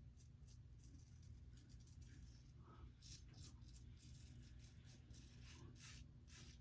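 Faint short scraping strokes of a double-edge safety razor cutting stubble. They are sparse at first and come about one to two a second from about halfway through, over a low steady hum.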